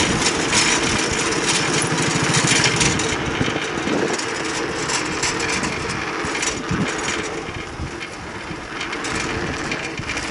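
A motor vehicle's engine running steadily, louder for the first few seconds and then easing off a little.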